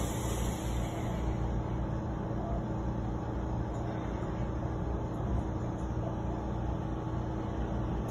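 Steady low hum and rumble inside a commuter train car with its doors shut, and a high hiss dying away in the first second.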